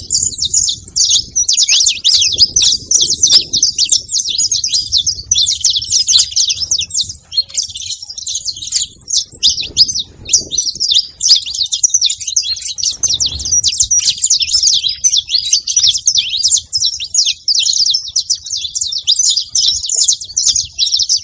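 A flock of saffron finches chirping together at a feeder, many quick high chirps overlapping in a continuous chatter.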